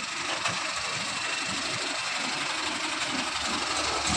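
A heavy diesel engine running steadily, slowly getting louder.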